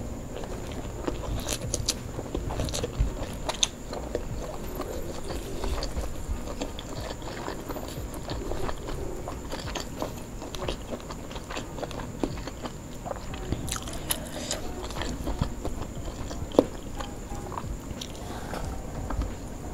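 Close-miked chewing and mouth sounds of a person eating fried duck and rice by hand: irregular wet clicks, smacks and bites, with one sharper click late on.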